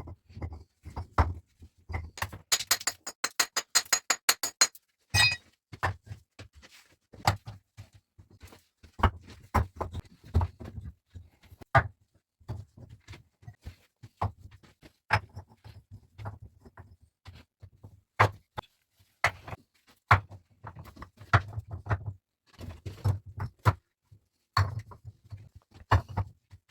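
Irregular knocks and thunks, some with a low thud, as things are handled and set down. A quick run of sharp clicks comes about two and a half seconds in, and a single ringing strike follows shortly after.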